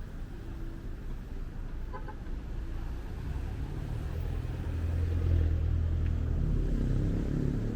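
Street traffic: a motor vehicle's low engine rumble, growing louder about halfway through as it comes close.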